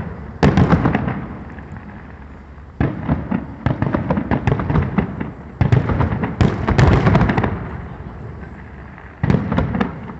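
Fireworks display: several waves of shell bursts with dense crackling, each dying away before the next salvo.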